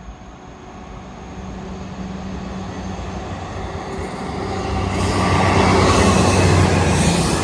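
A train approaching and passing, its rumble of wheels on rails with a steady low hum growing louder to a peak near the end.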